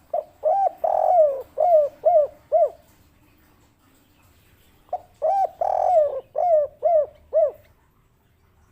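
Spotted dove (derkuku) cooing its 'kuk 3' song twice: each phrase runs two short notes, one longer drawn-out coo, then three short 'kuk' notes, with a pause of about two seconds between the phrases.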